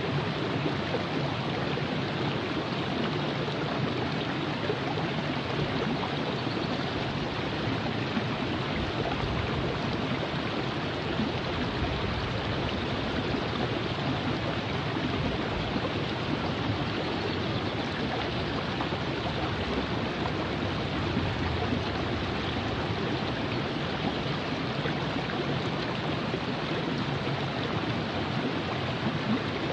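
River water flowing over rocks, a steady even rush.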